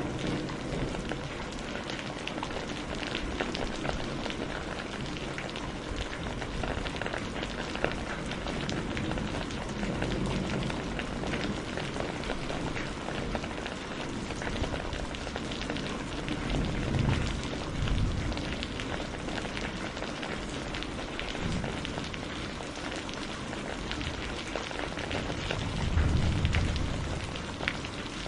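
Steady rain falling, a dense patter of many small drops. A few deeper swells pass through it, the strongest near the end.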